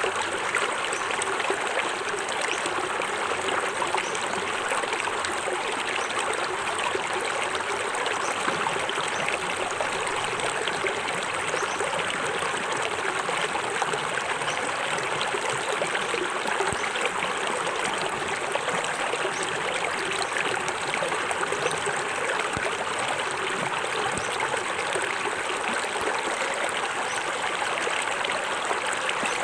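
Small waterfall in a forest stream: water falling and splashing in a steady, unbroken rush.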